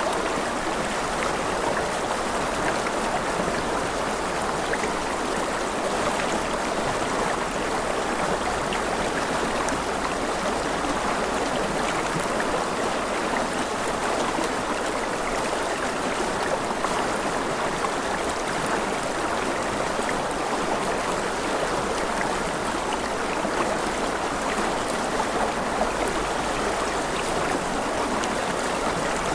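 Running water of a stream, a steady even rush with fine trickling detail.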